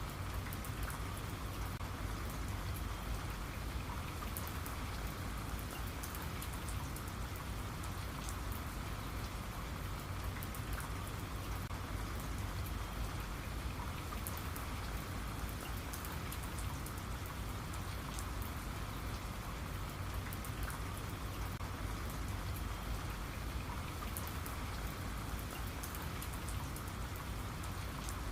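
Steady rain falling, with many small drop patters.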